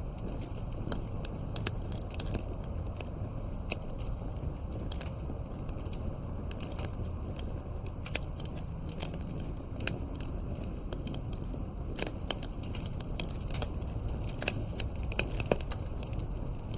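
Campfire crackling: burning wood gives irregular sharp pops and snaps over a steady low rush.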